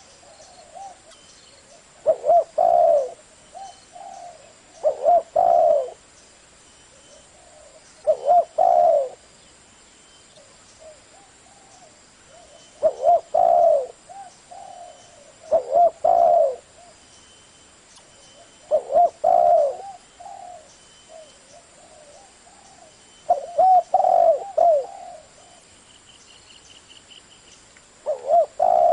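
Spotted dove cooing: a short phrase of several low coos, repeated every few seconds, about eight times.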